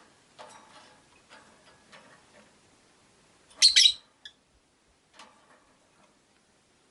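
Rosy-faced lovebird giving one loud, short burst of shrill chirps about halfway through, after a stretch of faint clicking and rustling.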